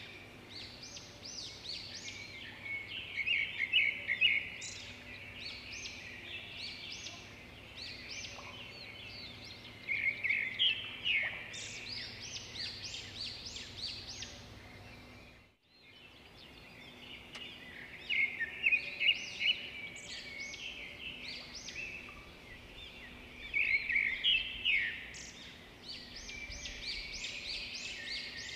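Small birds singing: bursts of quick, high chirping notes every few seconds over a faint steady background, with a brief dropout about halfway through.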